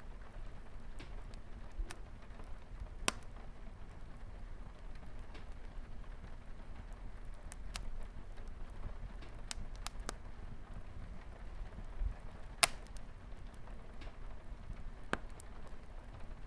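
Wood fire crackling, with sharp irregular pops scattered through, the loudest about three-quarters of the way in, over a steady soft hiss of light rain on a window.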